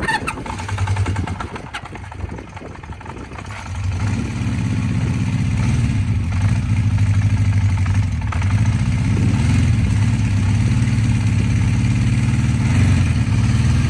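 Honda CB350 Four's air-cooled inline four-cylinder engine running cold just after a cold start, with the choke partly off. For the first few seconds it runs quieter and uneven, then about four seconds in it settles into a louder, steady run.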